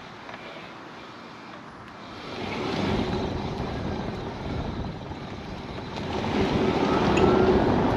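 Road and wind noise of a 2015 Tesla Model S P85D on the move, swelling about two seconds in and again around six seconds.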